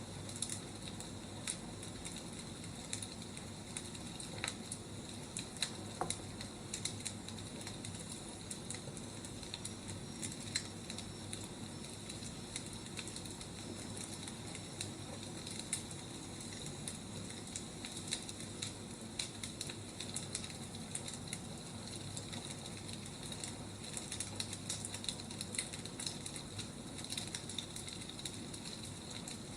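Firewood burning in a fire, crackling with irregular sharp snaps and pops over a steady hiss.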